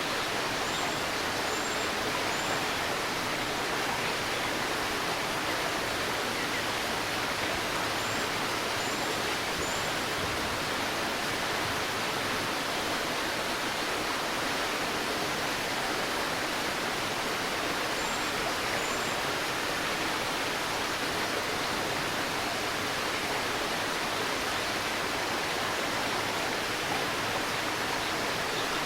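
A shallow river babbling steadily. Faint high bird chirps come in short runs of two or three, a few times.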